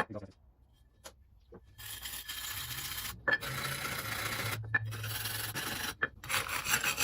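Scraping and rubbing on the metal mating surface of an outboard motor's exhaust part, cleaning off old gasket material. It starts about two seconds in and goes in four strokes of a second or more each, with short breaks between them.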